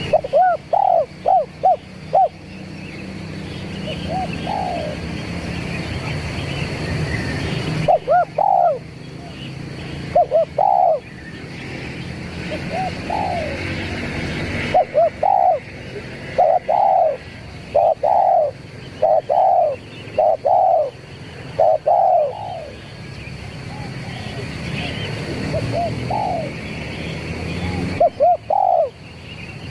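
Spotted dove (tekukur) cooing in repeated phrases of short, arched coos: the three-note 'kuk 3' call used as a lure for doves. It runs over a steady low background noise.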